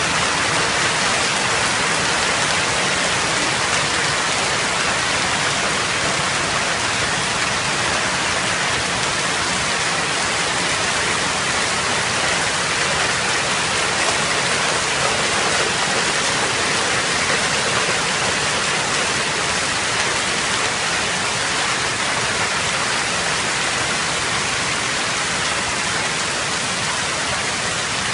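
Heavy storm rain pouring down, a steady dense hiss that never lets up.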